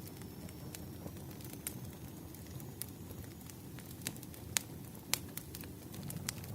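Wood fire crackling: irregular sharp pops and snaps over a low, steady rumble, with a couple of louder pops just past the middle.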